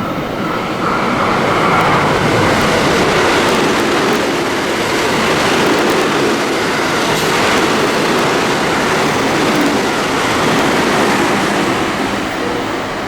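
A JR West train passing through the station without stopping: a steady roar of wheels on rail that builds about a second in, holds, and eases off near the end.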